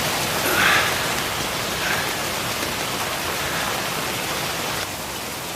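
Heavy rain falling in a steady hiss that cuts in suddenly, then drops a little in level near the end.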